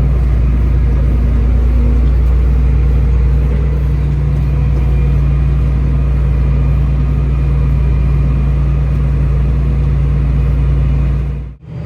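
Tractor engine running steadily, a loud, even low drone. It drops out abruptly for a moment near the end.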